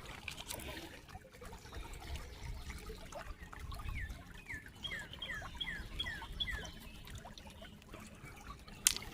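Shallow creek water trickling steadily over rocks. About midway a bird calls a quick series of roughly eight short falling chirps, and near the end there is one sharp knock.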